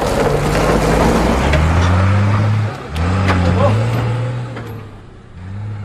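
A truck's engine pulling away and accelerating. Its low note rises in pitch, drops at a gear change about three seconds in, then climbs again and fades near the end.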